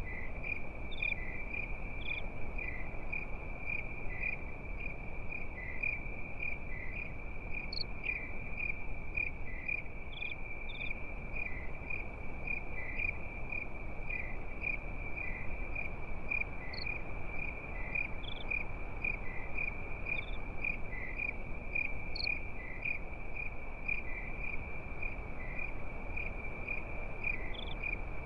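Crickets chirping in a continuous high-pitched trill, pulsing about twice a second, with occasional higher single chirps over a steady low background rush.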